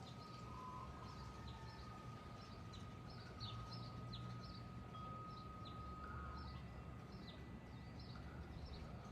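Faint background of small birds chirping: short, high, falling chirps, two or three a second, over a low rumble. A thin steady high tone is heard through much of it.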